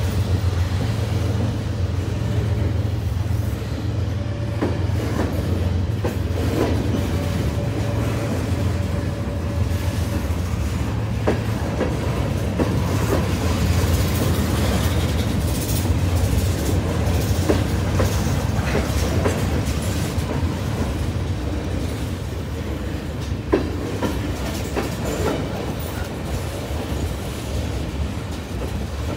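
Freight train of covered hopper cars rolling past close by: a steady rumble of steel wheels on rail, with scattered clicks and knocks from the wheels and couplings.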